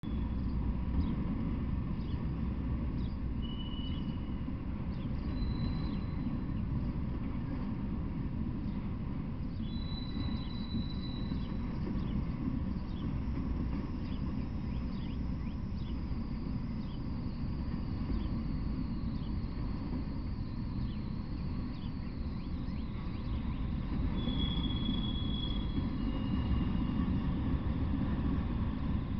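Freight train of autorack cars rolling past with a steady low rumble of wheels on rail. A few short high-pitched tones come and go over it.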